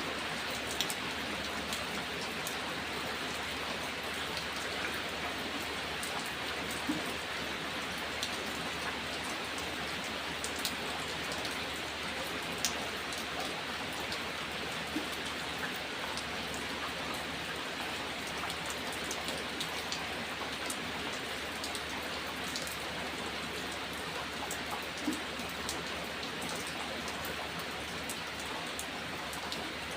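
Steady rain falling, with scattered individual drop ticks on a surface.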